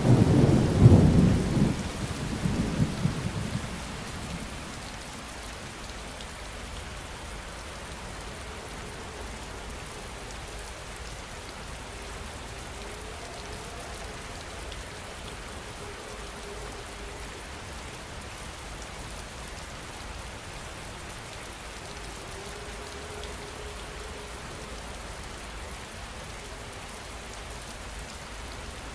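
A thunderclap right at the start, rumbling low and dying away within about four seconds, over heavy steady rain.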